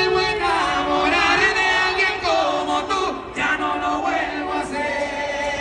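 Several male voices singing together over music, in the manner of a group singalong.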